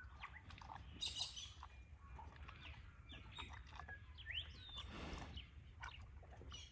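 Faint bird calls: scattered short chirps and a few rising whistled notes, with a brief rustle about five seconds in.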